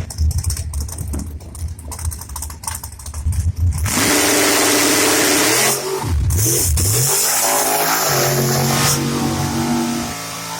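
Drag race car engine rumbling unevenly at low revs, then launching at full throttle about four seconds in and running hard. Its pitch dips briefly around six seconds, and the level drops near the end.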